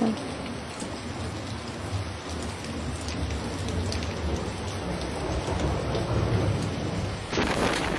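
Heavy rain pouring down in a thunderstorm, a steady hiss with a low rumble underneath. Near the end it cuts abruptly to a louder, brighter rush.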